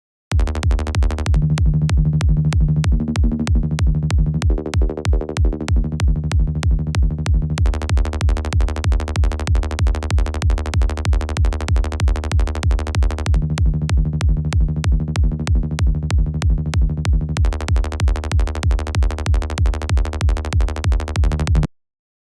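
Electronic kick drum and synth bass loop playing back, made with the Kick 2 and Sylenth synthesizers: an even, fast run of punchy kicks over a sustained bass line, with crisp high clicks in parts. It starts just after the beginning and cuts off abruptly near the end.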